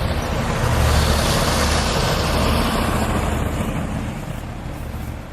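A motor vehicle passing by, a low rumble and rushing noise that swells to its loudest about a second in and then fades away.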